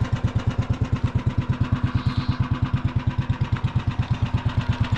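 Predator 301 single-cylinder four-stroke engine in a golf cart idling steadily, with an even beat of about ten firing pulses a second.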